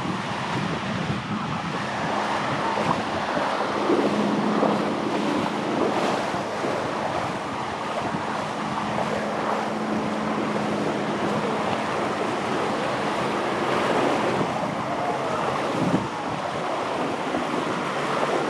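Surf washing onto a sandy beach, with wind buffeting the microphone. A steady low hum runs underneath from about four seconds in until about eleven seconds in.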